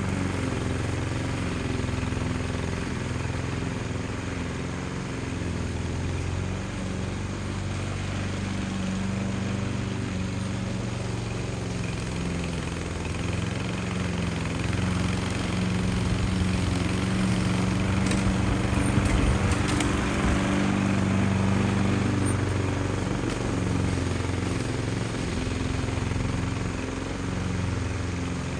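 Small petrol engine of a grass cutter running steadily, holding a fairly even speed with slight rises and dips.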